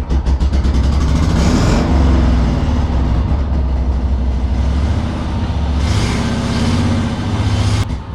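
Vehicle engine running loudly close by, its revs rising and falling, briefly higher about a second and a half in and again from about six seconds in.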